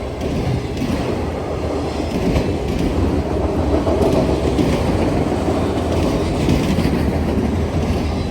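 Freight train rolling past, a steady noise of its cars and wheels on the rails, growing a little louder a couple of seconds in.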